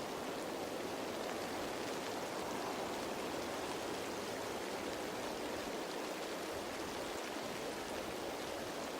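Steady rain falling on leaves, an even patter with faint drop ticks throughout.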